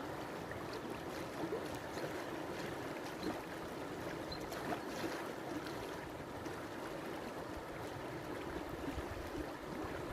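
River water flowing and lapping in a steady rush, with small splashes and droplet ticks.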